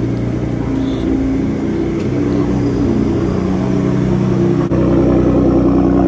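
Car engine running while driving, its pitch rising and falling. About four and a half seconds in, the sound changes abruptly to a steadier, louder engine drone.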